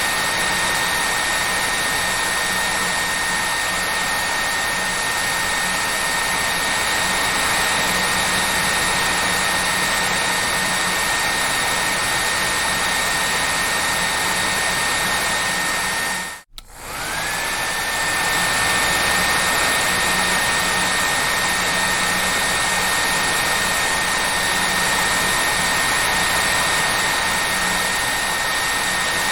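Hair dryer running steadily: a constant rush of air with a high motor whine. About halfway through, the sound drops out for a moment, and the whine then rises back up to pitch.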